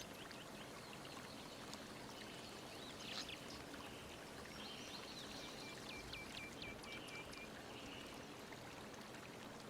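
Faint steady rushing hiss, with a short run of faint, quick high chirps a little past the middle.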